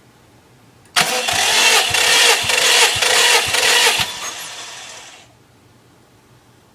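Subaru Impreza WRX STI Version 7 engine, a turbocharged EJ207 flat-four, starting abruptly and running loudly for about three seconds, then dying away over about a second as it shuts down.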